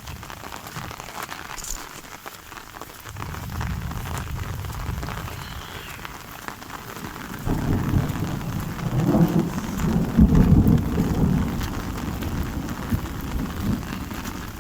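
Steady rain falling, with a long low rumble of thunder that starts about three seconds in, swells loudest a few seconds later and then fades.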